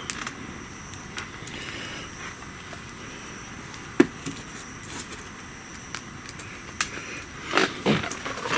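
Wood bonfire crackling over a steady hiss, with scattered sharp pops, one louder pop about four seconds in, and a few knocks near the end.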